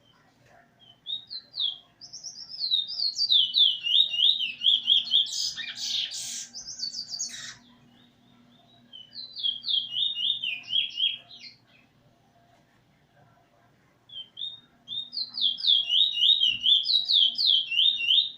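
A songbird singing three phrases of rapid, repeated downward-sweeping whistled notes, with short pauses between them and a brief noisy rustle in the middle of the first phrase.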